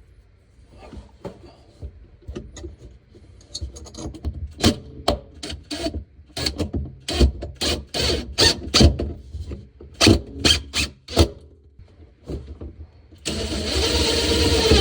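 Irregular clicks and knocks of an Allen wrench and metal hardware as the bolts on an undermount sink support bracket are tightened, thickest in the middle stretch. Near the end a steady rushing noise starts and runs on for over a second.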